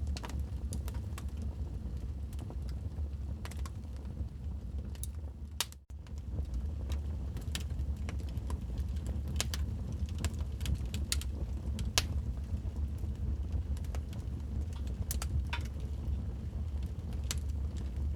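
Wood fire in a fireplace crackling, with irregular sharp pops and snaps over a steady low rumble of the flames. The sound cuts out for a split second about six seconds in.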